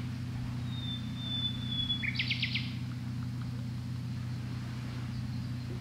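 A songbird calling: one thin, slightly falling whistle, then a quick run of four or five sharp notes about two seconds in. A steady low hum runs underneath.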